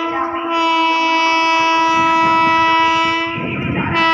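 Indian electric locomotive's air horn sounding long, steady blasts, broken briefly about three and a half seconds in before sounding again. The rumble of the train on the track shows through during the break.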